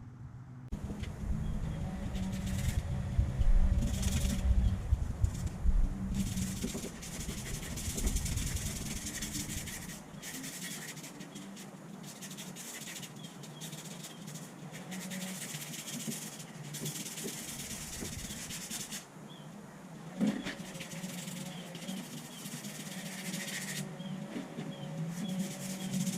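Sanding by hand: sandpaper rubbing back and forth on a surface in uneven spells of strokes, under a steady low hum.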